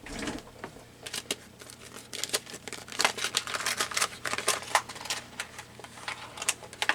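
Paper and small craft supplies being handled on a desk: a busy run of rustling and light clicks, thickest a few seconds in.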